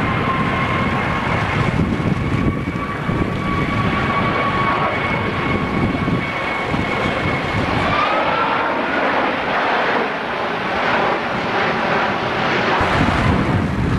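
Airbus A330 twin-engine jet airliner flying past low and slow: a steady jet roar with a high engine whine, which rises in pitch about two-thirds of the way through as the roar grows brighter.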